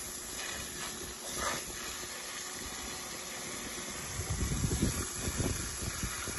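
Water spraying from a garden hose onto potted plants: a steady hiss, with low rumbling bumps over the last two seconds.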